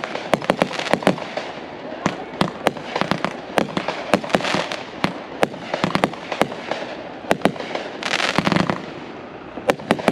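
Aerial fireworks display: shells bursting overhead with many sharp pops and bangs in quick, irregular succession. There is a short rush of noisy hiss about eight seconds in.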